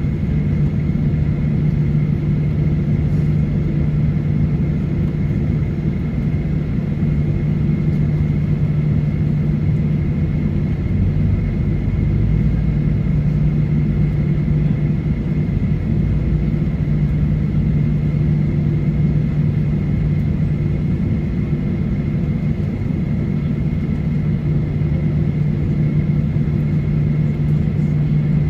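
Steady cabin drone inside a Boeing 737-900ER: its CFM56-7B engines running at low, unchanging thrust with a constant low hum and a faint high whine, over cabin air noise, before the takeoff roll.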